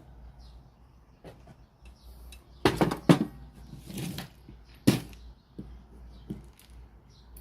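A few sharp knocks and short clatters of objects being handled, loudest about three and five seconds in, over a low steady hum.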